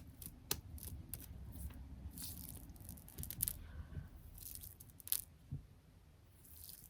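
Close-miked ASMR tapping and handling of small objects such as squishy toys, clips and stickers: irregular sharp taps, and a few short sticky peeling sounds.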